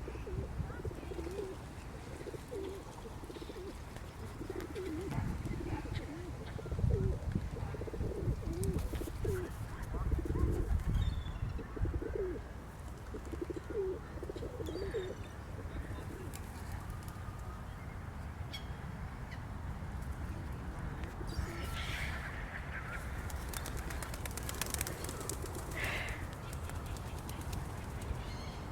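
A large flock of birds calling, mostly low, repeated coos crowding the first half, with a few higher chirps later on. A low rumble rises under the calls around the middle.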